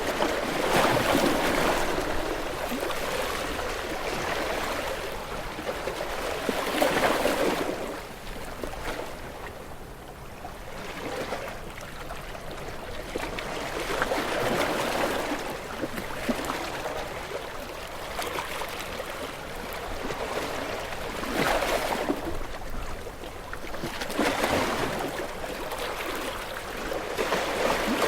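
Gentle sea waves breaking and washing up a beach, one wave every few seconds, each swelling into a rush of hiss and then drawing back.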